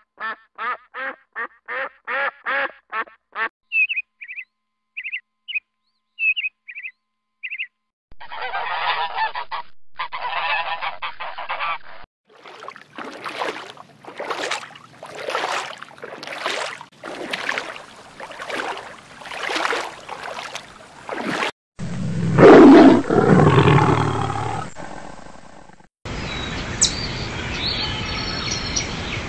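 A string of different animal calls cut one after another. First a quick run of about ten pitched calls, then a few short high chirps and some noisy bursts. Next comes a long series of calls about once a second, honk-like, then one loud low call about two thirds of the way in, and finally outdoor background noise with small bird chirps.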